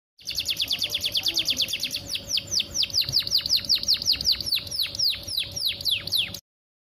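Young domestic canary singing a long roll: a fast run of repeated downward-sweeping notes, about eight a second at first and slowing to about five a second, that cuts off suddenly near the end.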